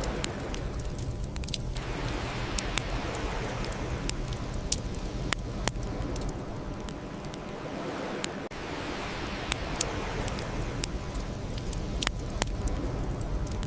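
Bonfire burning, with sharp, irregular crackles and pops over a steady low rumble.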